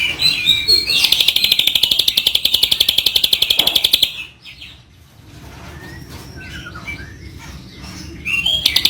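A bird's rapid, evenly pulsed high trill, about a dozen notes a second for some three seconds. Softer scattered chirps follow, and the trill starts again near the end.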